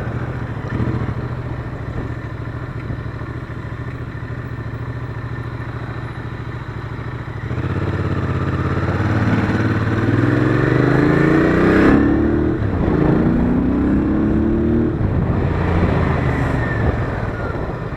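Royal Enfield Interceptor 650's parallel-twin engine, heard from the rider's seat. It runs steadily, then about seven seconds in it pulls harder, the pitch climbing until a gear change about twelve seconds in. It climbs again and eases off near the end.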